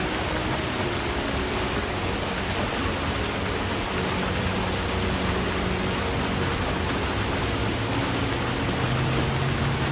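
Forest stream with water rushing steadily, with a faint low hum underneath. No birdsong stands out.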